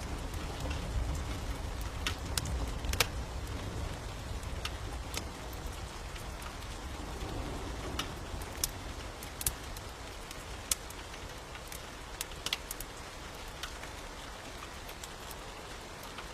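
Steady rain hissing, with a low rumble easing off over the first few seconds and sharp pops and crackles from a wood fire scattered throughout.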